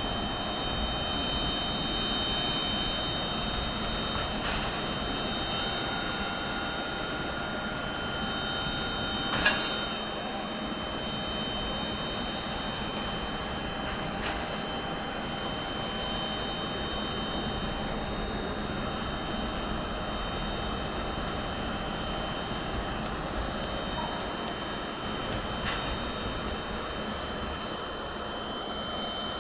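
Jet aircraft turbines running steadily, a constant high whine over a broad rumble. A short steady tone is held for a few seconds and ends in a sharp click about nine seconds in.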